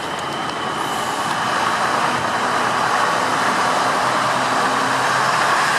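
A large vehicle's engine running steadily, most likely a classic truck, slowly getting louder as it draws nearer.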